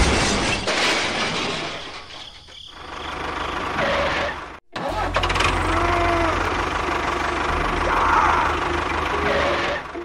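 An engine running, with a steady low rhythmic chug in the second half; the sound cuts out briefly a little before the middle.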